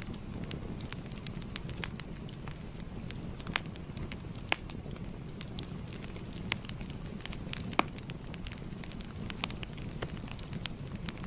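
Crackling fire: a steady low rumble of burning with sharp, irregular pops and snaps, a few standing out louder.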